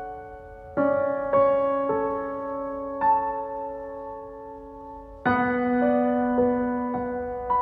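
Slow, gentle piano music: soft chords struck every half second to two seconds, each left to ring and fade.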